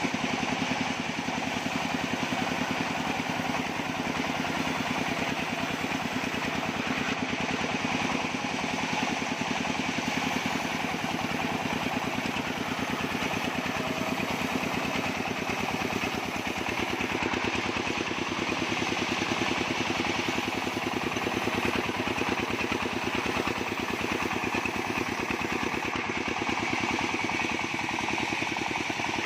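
Engine of a portable bandsaw sawmill running steadily at an even speed.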